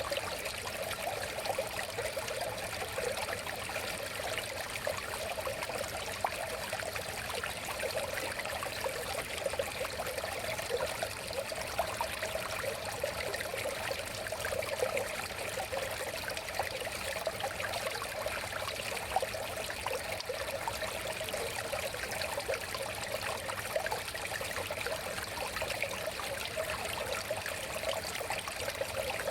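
River water flowing and babbling steadily over rocks, with small splashes and gurgles throughout.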